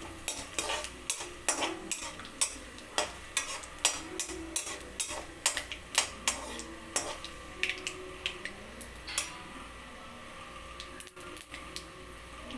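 Whole spices (fennel, cinnamon, cloves, bay leaf) frying in hot oil in a pan: a faint sizzle under many sharp clicks and crackles, about two or three a second, that thin out after about nine seconds.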